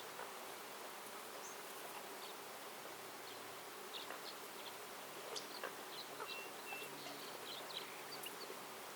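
Forest ambience: a faint steady hiss with an insect buzzing, and scattered short bird chirps and whistles, most of them in the second half.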